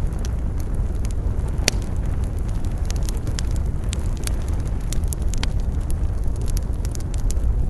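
Campfire burning, wood crackling and popping with frequent sharp snaps, one louder crack under two seconds in, over a steady low rumble of wind.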